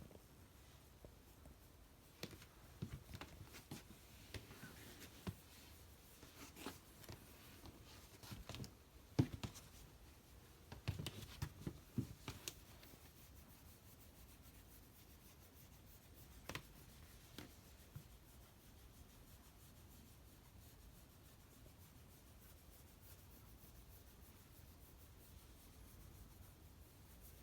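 Faint rubbing with scattered soft taps and clicks of a hand stroking a Shiba Inu's fur, mostly in the first half; after that, near silence.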